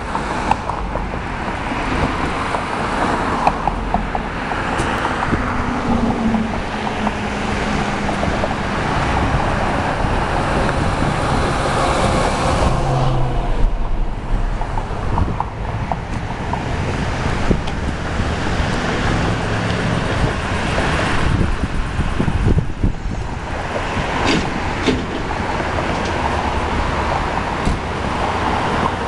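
Road traffic noise with wind on the microphone.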